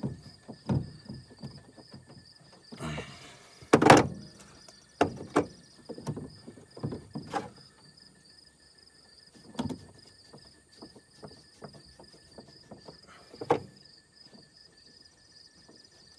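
Scattered knocks, clicks and clinks of hand work on a leaking fuel line in an engine bay. A short scrape comes just before a sharp clank about four seconds in, and there is another clank late on, over a faint steady high trill.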